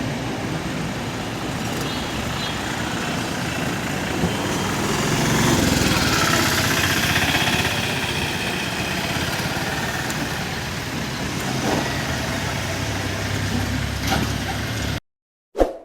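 Heavy diesel vehicle, a bus or loaded lorry, running as it works round a hairpin bend on a mountain road. It grows louder for a few seconds midway, then cuts off suddenly about a second before the end, followed by a brief separate blip.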